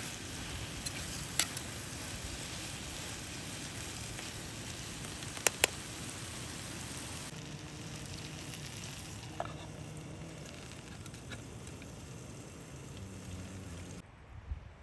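Food sizzling and frying in a pan, a steady hiss with a few sharp pops, softening about halfway through.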